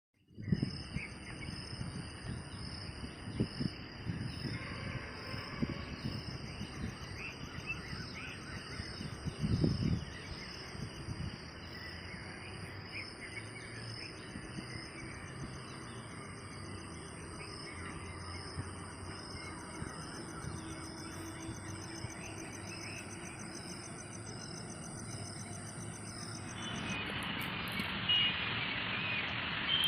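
Outdoor ambience with insects chirring steadily in a rapid, pulsing high-pitched drone, and low thumps through the first ten seconds. Near the end the chirring stops and a broader steady hiss takes over.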